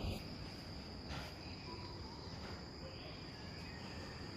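Insects trilling steadily in a single high pitch, with a few faint short chirps and a low background rumble.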